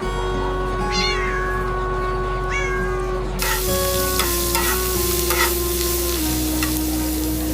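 A cat meowing twice, then food sizzling and frying in a pan from about halfway through, with a few light clinks in the sizzle.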